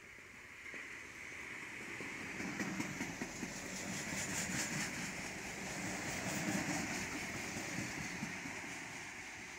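Adelaide Metro 3000-class diesel railcar set passing a platform without stopping: wheels clattering over the rails and the underfloor diesel engines running. It grows louder over the first couple of seconds as the train arrives and eases slightly near the end.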